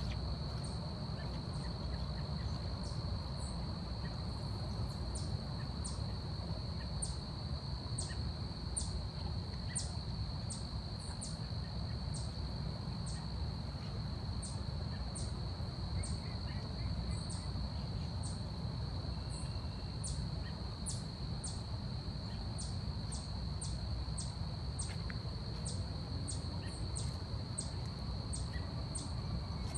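Forest ambience: a steady high-pitched insect drone, with many short, very high ticks scattered irregularly through it, over a low rumble.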